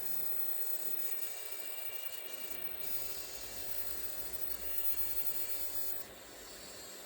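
Steady hiss with faint high whines that come and go, from the small servo motors of a 3D-printed robot hand.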